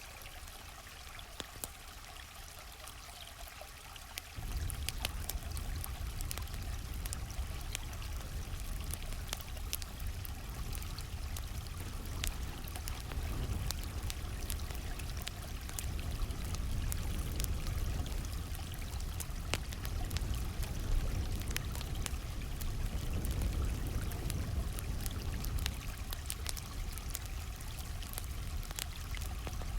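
Flowing stream water with the sharp snaps and pops of a campfire crackling over it. A deeper low rumble comes in suddenly about four seconds in and continues.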